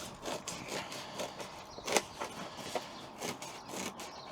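Scissors cutting a sheet of sound-deadening insulation: irregular snips and scraping as the blades chew through the material, with the sharpest snip about two seconds in.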